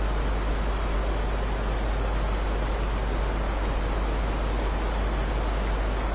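Steady rain falling, an even unbroken hiss with a constant deep rumble underneath.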